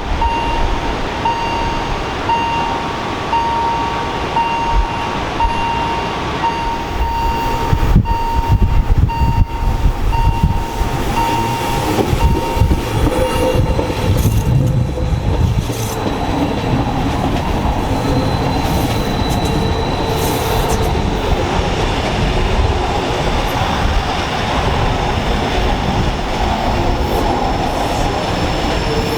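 Rhaetian Railway train running on the Bernina line. A beeping tone repeats a little more than once a second for the first twelve seconds, and from about halfway on the wheels squeal intermittently.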